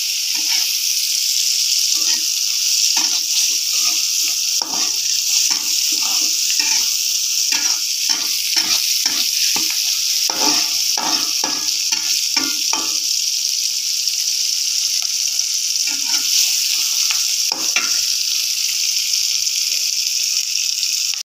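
Chilies, shallots and tomatoes sizzling steadily in hot oil in a wok, while a spatula scrapes and turns them in quick strokes. The strokes come about twice a second through the middle and only now and then near the end.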